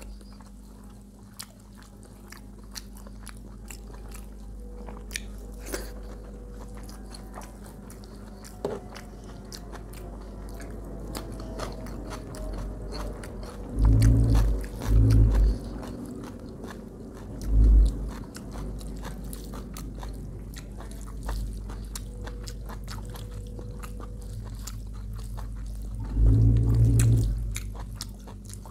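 Close-miked chewing of food, with a steady run of small wet mouth clicks. There are three loud, low thumps around the middle and another near the end.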